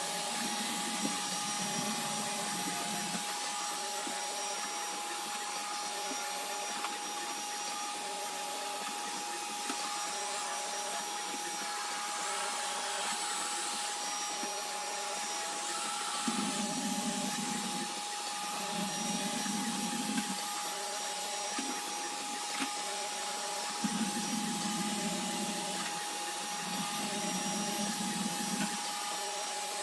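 iRobot Roomba robot vacuum running: a steady vacuum noise with one constant tone over it. A lower hum swells in and out every few seconds, with a few light clicks.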